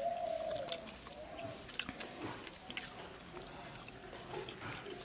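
Close-up chewing and small wet mouth clicks of a person eating rice and egg curry by hand. A low cooing call sounds through the first second.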